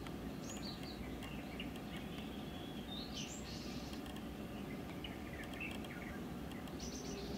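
Outdoor ambience: a steady low background hum with scattered short bird chirps, the loudest about three seconds in and another near the end.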